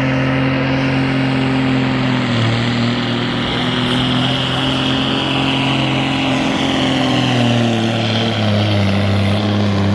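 International semi truck's diesel engine running hard under load while pulling a weight-transfer sled. Its pitch steps down about two seconds in and again about eight seconds in as the engine lugs down.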